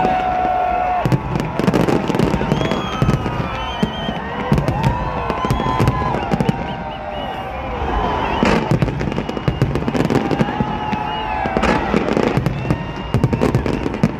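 Fireworks display going off: a dense, irregular stream of bangs and crackling bursts, loud throughout.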